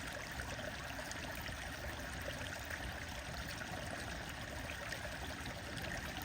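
Stream water flowing over stones, a steady rushing trickle with faint scattered ticks.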